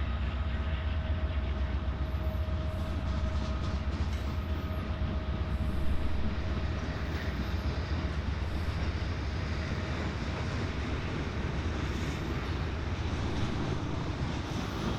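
Freight train rolling past close by: a steady heavy rumble of wheels on rail, with a faint steady whine that fades out about eight seconds in.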